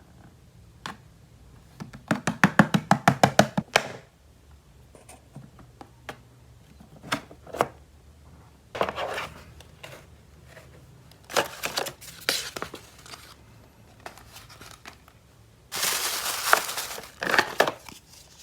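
Plastic toy packaging crinkling and tearing as it is unwrapped, in several separate bursts, the longest near the end. About two seconds in comes a quick run of sharp clicks, roughly eight a second.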